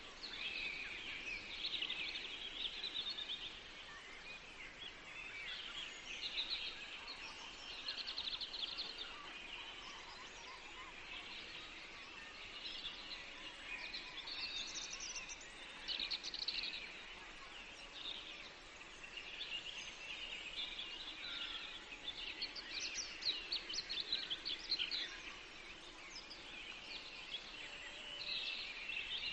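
Several forest songbirds singing over one another, a dense run of short chirps and quick trills, over a faint steady hiss.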